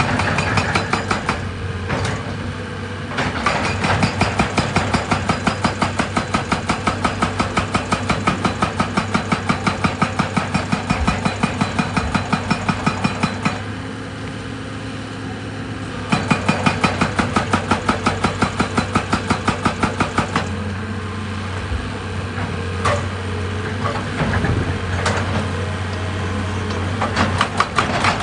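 Heavy quarry machinery hammering rock in rhythmic runs of about four blows a second, over a steadily running diesel engine. The hammering stops briefly twice and then resumes.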